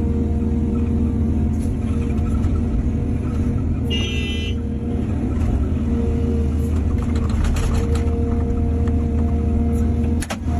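Heavy diesel excavator engine running steadily at working speed. A brief high-pitched whine comes about four seconds in, and a few faint knocks follow around seven to eight seconds.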